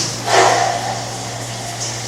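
A wet cat being bathed gives one short, loud cry about half a second in, over a steady hiss of running shower water and a low hum.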